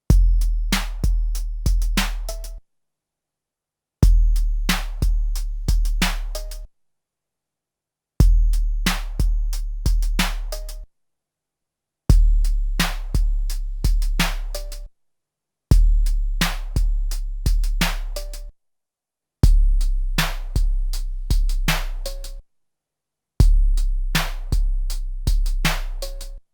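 A short drum-machine phrase played back from a 12-bit SP1200 sampler, repeated seven times with a second or so of silence between. Each phrase has deep, long bass-drum booms with sharper hits between them.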